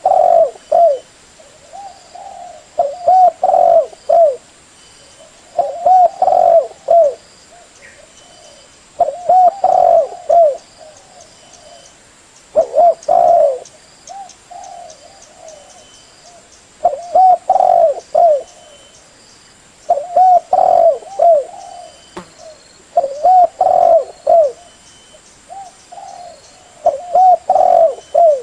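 Spotted dove (tekukur) cooing: a short phrase of several coos, repeated about every three seconds.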